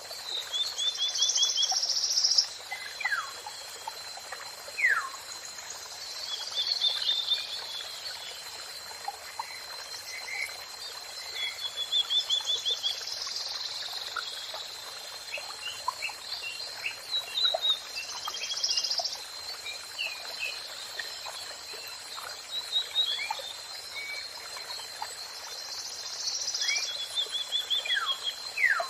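Songbirds calling and singing over the steady rush of running water. Short rapid trills, bursts of higher chatter and quick downward-sliding whistles come every few seconds, over a thin steady high tone.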